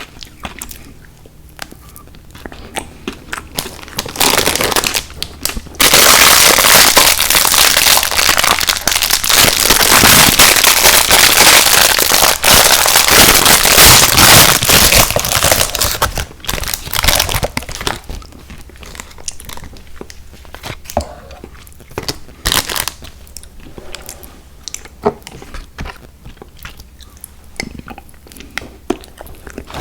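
Close-miked eating sounds: sparse wet clicks and crunches of sour gummy worms cereal being chewed, broken about six seconds in by some ten seconds of loud crinkling and crackling, like a plastic candy wrapper or bag being handled, before the sparse chewing clicks return.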